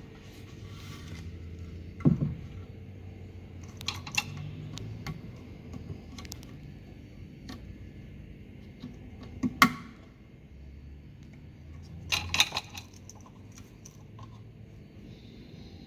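Scattered clinks and knocks of parts being handled while a washing machine's direct drive motor is swapped out, over a steady low hum. The sharpest knocks come about 2 s in, about 10 s in, and in a short cluster near the 12-second mark.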